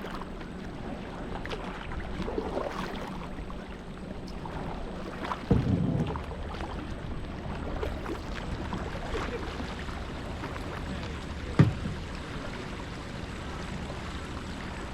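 Kayak paddling: paddle strokes splashing and water lapping, with one sharp knock about two-thirds of the way through.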